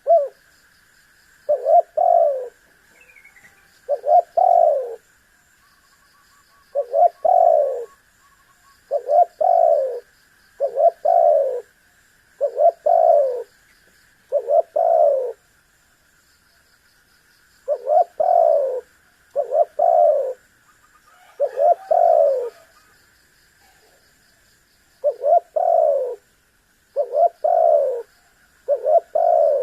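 Spotted dove cooing over and over: groups of two or three low, slightly falling coos repeated about every two seconds, with a couple of longer pauses. A faint steady high tone runs beneath it.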